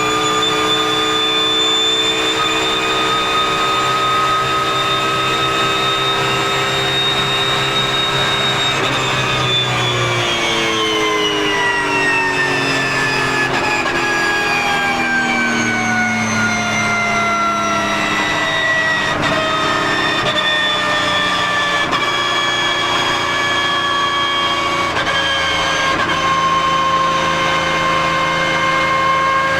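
Porsche GT3 Cup race car heard onboard: the flat-six engine and the whine of the race gearbox. The pitch holds high and steady for the first third, then falls slowly and smoothly over most of the rest, evening out near the end.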